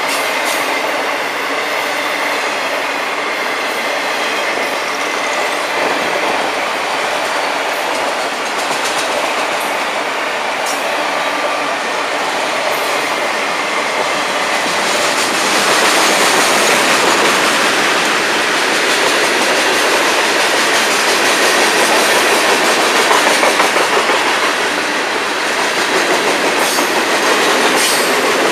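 Freight cars of a long FEC freight train rolling past at close range: steady noise of steel wheels on the rails, getting louder about halfway through.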